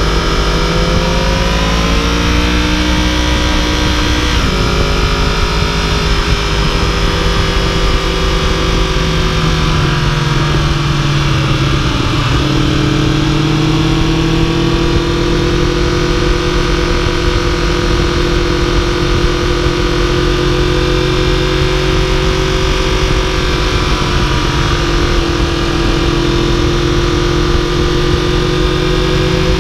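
2015 Yamaha YZF-R1's crossplane inline-four engine running under way at road speed, with wind rush. The engine pitch rises over the first few seconds and drops sharply about four seconds in, as on an upshift. It eases down around twelve seconds, then holds nearly steady, slowly climbing.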